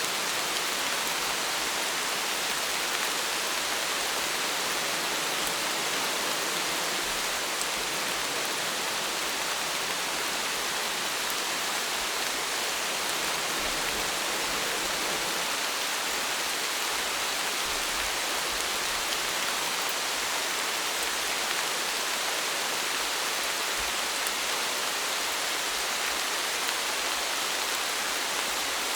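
Steady rain: an even hiss of falling rain with faint scattered drop ticks, unchanging throughout.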